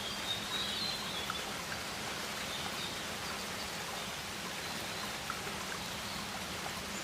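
Steady rainforest ambience of running water, an even hiss with a few faint high chirps in the first second.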